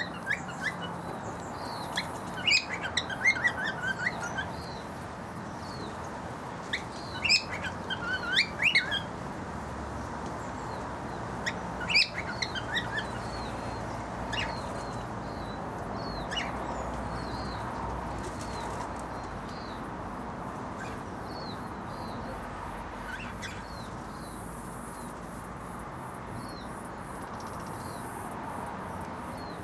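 Male cockatiel singing in short bursts of quick whistled chirps and sliding notes, several seconds apart, with fainter high chirps from other small birds in between.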